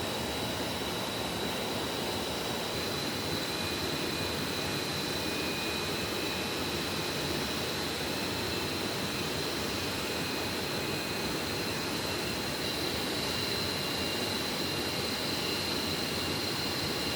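Forest stream, swollen by heavy rain, rushing steadily with an even hiss of water. A faint steady high whine sits above it throughout.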